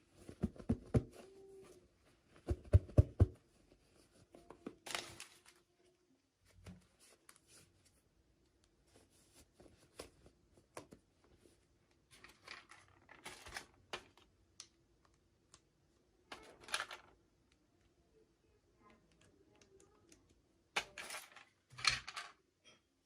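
Toy packaging being handled and opened by hand: two loud clusters of sharp plastic clicks and taps in the first few seconds, then short scattered rustling and scraping sounds, over a faint steady hum.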